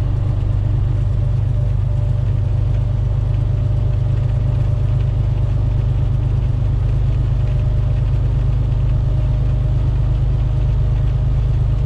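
Semi truck's diesel engine running at steady cruise, heard from inside the cab as a constant low drone with road noise.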